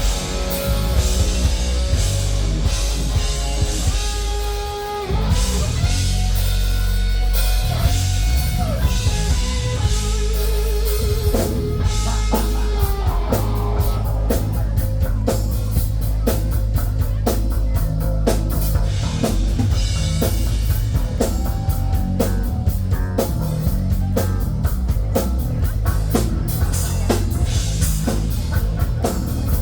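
Rock band playing without vocals: guitar holding and bending notes over bass and drums, then from about twelve seconds in the drums take up a fast, steady beat under the guitar.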